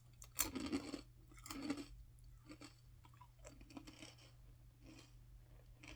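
A person biting into and chewing crunchy ring-shaped snack crisps: two sharper crunches in the first two seconds, then softer, regular chewing crunches.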